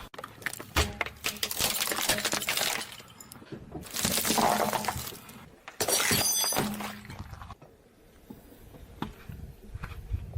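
Glass shattering and crunching under a car tyre, in three bursts of dense crackling, the last about six seconds in with the clear ring of breaking glass, then a quieter trickle of crackles.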